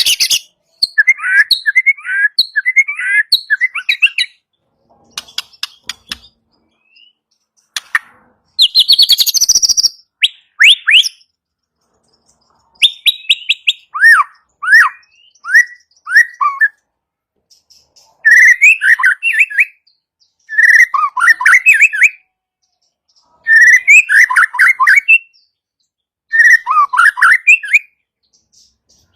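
White-rumped shama (murai batu) singing an agitated lure song. It comes in loud phrases of quick, sliding whistled notes, each a second or two long with short pauses between. Harsh crackling rattles ('kretekan') come near the start and about a third of the way in.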